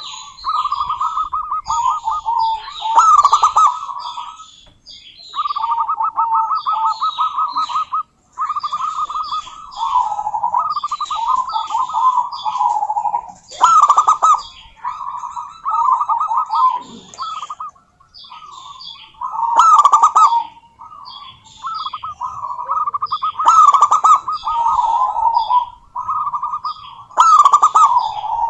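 Zebra dove (perkutut) calling: repeated phrases of quick, stuttering cooing notes, each phrase lasting a second or more with short pauses between. Sharper, higher chirps are heard several times over the calls.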